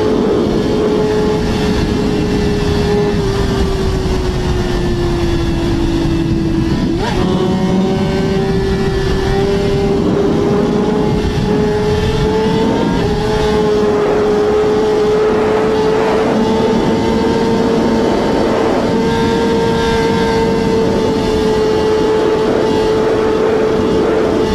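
Superbike engine held at high revs: one steady, high-pitched note that sags slightly, then jumps back up abruptly about seven seconds in and again around thirteen seconds, over a dense rushing noise.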